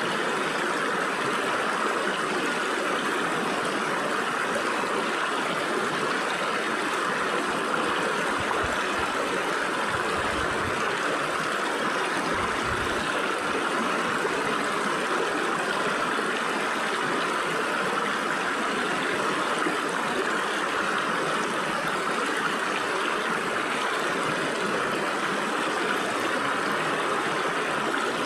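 Stream water rushing and gurgling through gaps between rocks, a steady, unbroken splashing flow.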